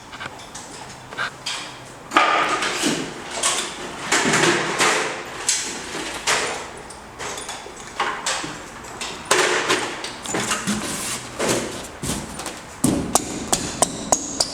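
Rigid foam insulation board being forced into a tight gap in the wall framing: repeated scraping and squeaking rubs against the frame, with a few sharp knocks near the end as it is pushed home.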